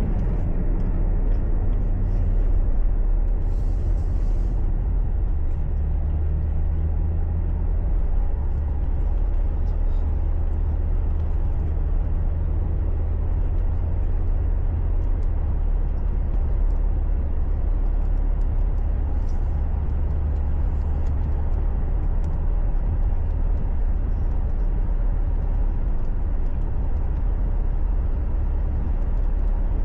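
Steady low rumble of a car's engine and tyre noise, heard from inside the cabin.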